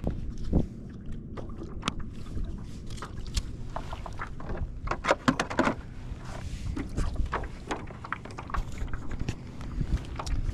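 Kayak on open water: water sloshing against the plastic hull and wind on the microphone, a steady low rumble. Around the middle comes a quick cluster of sharp clicks and knocks.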